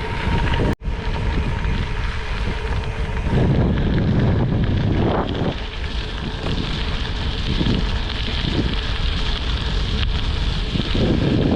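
Wind buffeting the microphone of a bicycle rider's camera while riding downhill at speed, a steady rushing noise, with a brief dropout a little under a second in.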